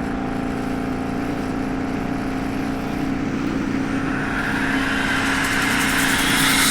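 Indian Scout Bobber's V-twin engine running steadily at highway cruising speed, with wind rushing past. The rushing grows louder over the last few seconds.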